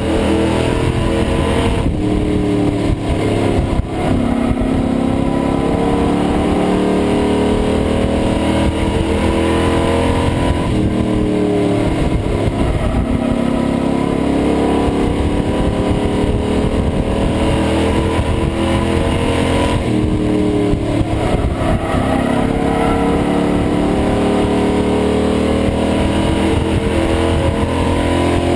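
Pro Truck race truck's engine heard from inside the cab, climbing in pitch under throttle and dropping off when the driver lifts, in a repeating cycle every several seconds as it laps a short oval.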